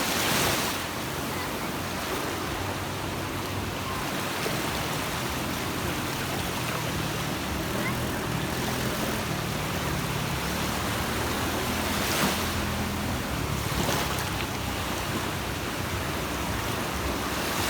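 Sea waves washing onto a beach: a steady hiss of surf, swelling as a wave breaks just after the start and again about twelve and fourteen seconds in. A faint low drone runs underneath through the middle.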